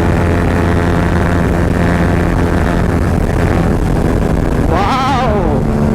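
Yamaha R15's single-cylinder engine running at a steady speed through an Akrapovic exhaust while riding. A short wavering tone rises and falls over it about five seconds in.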